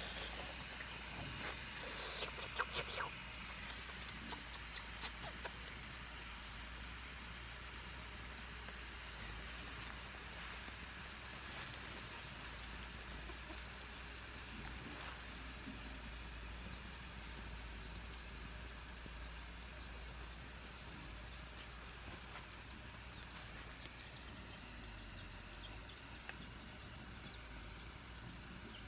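Steady high-pitched insect chorus, swelling and easing every few seconds, with a few brief sounds about two to three seconds in.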